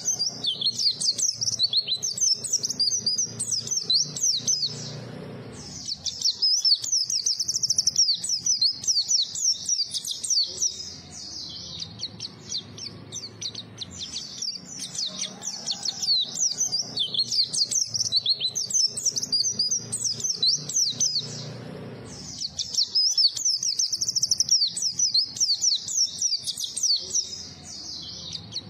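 A white-eye (pleci) in full song: long runs of rapid, high twittering notes, broken by brief pauses about five and twenty-one seconds in.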